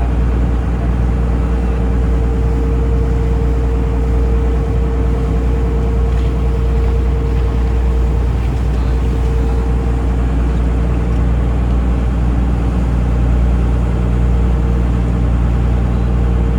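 Taxi boat's engine running steadily under way: a constant deep drone with a higher hum over it that fades about halfway through.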